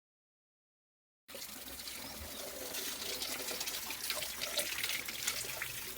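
Running, splashing water, a dense hiss with many small splashes, cutting in abruptly about a second in.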